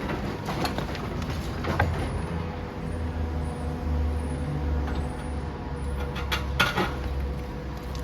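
Demolition machine's engine running with a steady low rumble, louder in the middle. It is broken by occasional sharp knocks and crunches of rubble, the loudest a double knock near the end.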